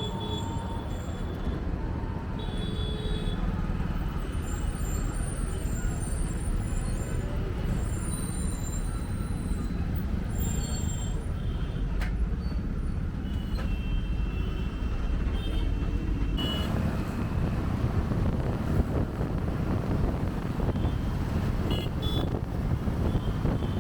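City road traffic heard from a moving bike: a steady low rumble of engines and road noise, with short high tones now and then. It grows louder and noisier about two-thirds of the way through.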